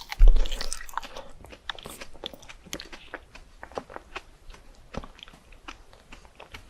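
Close-miked chewing of fresh fruit: crisp crunches and small wet clicks of biting and mastication, irregular throughout. A loud thump with a deep boom comes just after the start.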